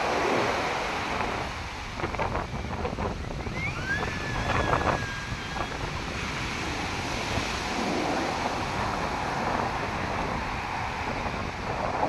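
Strong sea surf breaking and washing onto the shore, with wind buffeting the microphone. About four seconds in, a brief high tone rises and holds for a couple of seconds over the surf.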